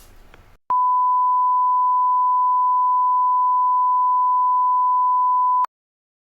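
A single steady electronic beep, one unchanging pure tone, starting abruptly about half a second in and cutting off sharply after about five seconds.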